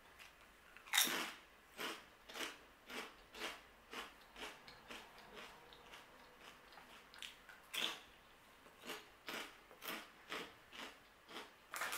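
A person biting into a crunchy snack crisp and chewing it with the mouth closed. A loud crunch comes about a second in, followed by crunches about two a second. They thin out mid-way, another loud crunch comes near eight seconds, and then a few more follow.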